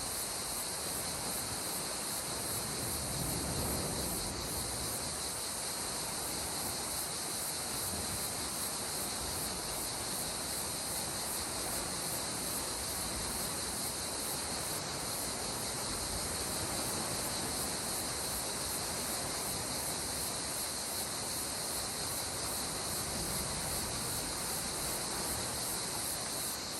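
Calm sea water washing in small waves, rising a little now and then, under a steady high chorus of insects.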